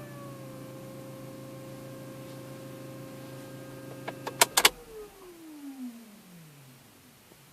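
Opel Astra H electro-hydraulic power steering pump whining steadily over a lower hum: the howl of a dying pump. About four and a half seconds in, a few sharp clicks sound, the hum stops, and the whine falls steadily in pitch over a couple of seconds as the pump winds down.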